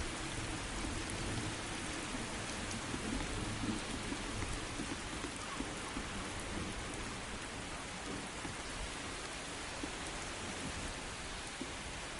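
Steady rain falling, an even hiss across the whole range, with a low rumble in the first few seconds that fades away.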